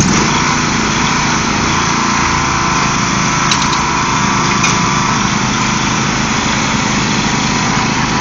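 Riding lawn mower engine running steadily with its mower blades engaged.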